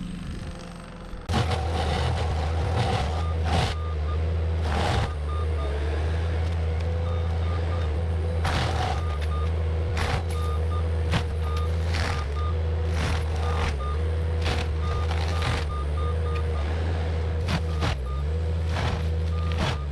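Cat 259D compact track loader running a forestry mulcher, its diesel engine and a steady whine jumping louder about a second in. Short backup-alarm beeps sound in repeated runs as it reverses, and sharp cracks break through again and again.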